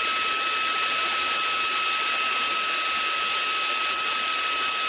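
Shark WandVac cordless handheld vacuum running at full speed: a steady high-pitched motor whine over a rush of air.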